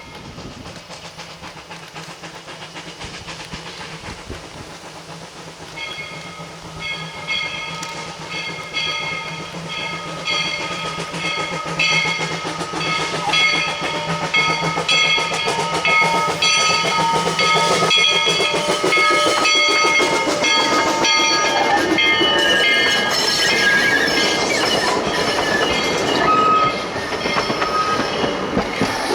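Narrow-gauge steam train approaching and passing, growing steadily louder, with rail clatter. From about six seconds in, high squealing tones shift in pitch, the wheels squealing against the rails.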